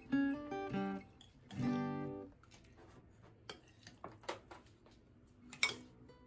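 Background music on acoustic guitar, plucked notes that die away after about two seconds, followed by a few sharp clicks.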